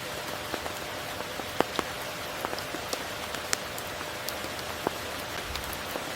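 Steady rain falling, an even hiss with many separate drops landing close by as sharp drips scattered through it.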